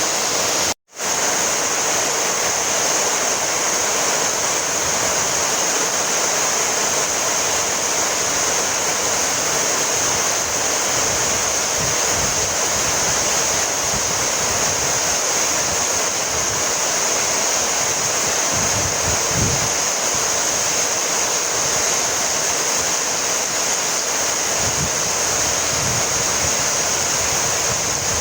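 Heavy rain falling steadily as an even, dense hiss. It cuts out completely for a split second about a second in.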